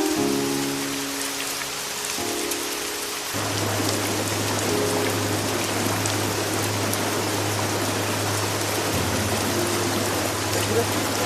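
Steady rain falling, an even hiss that grows fuller about three seconds in, under soft calm background music of held notes with a low sustained tone.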